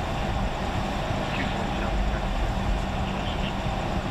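Steady rumble and hum inside a vehicle's cabin in a snowstorm, with a constant low drone.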